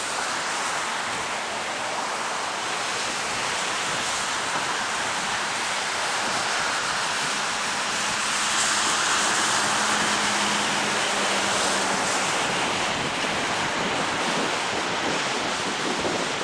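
Downed live power line burning and arcing, giving off a steady hiss that swells slightly about halfway through.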